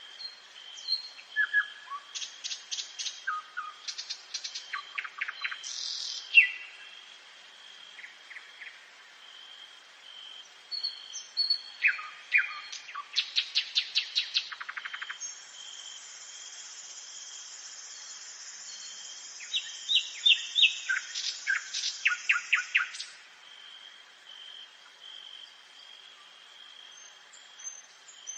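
Nightingale singing: phrases of rapid repeated notes, whistles and clicks separated by pauses. The middle phrase holds a long high rattling trill lasting several seconds.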